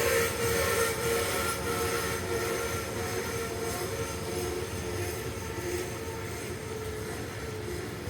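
Freight train hauled by an electric locomotive rolling past, with steady pitched tones over the rumble of the wagons and a few faint knocks early on, gradually fading away.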